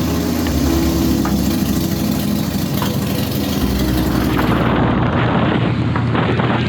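Harley-Davidson V-twin motorcycle engine running steadily, with rushing noise over the microphone; the engine note shifts about three and a half seconds in.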